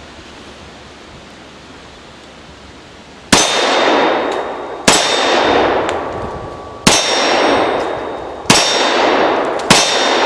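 Five shots from a Tokarev TT-33-pattern pistol in 7.62×25mm, beginning about three seconds in. Each shot is followed by a loud metallic ring from a steel target that dies away over about a second.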